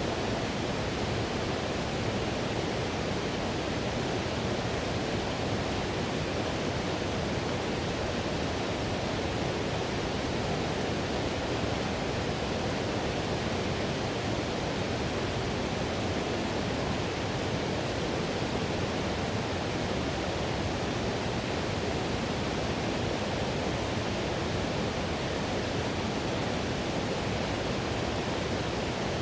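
Whitewater river rushing: a steady, even roar of fast-flowing water with no breaks or changes, weighted toward the low and middle range.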